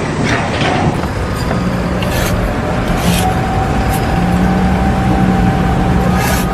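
An engine or motor running steadily with a constant hum, with a few short hissing or rattling noises over it.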